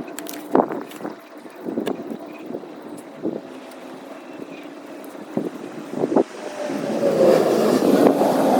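A small motor running steadily, with scattered knocks and clicks; a louder hiss builds near the end.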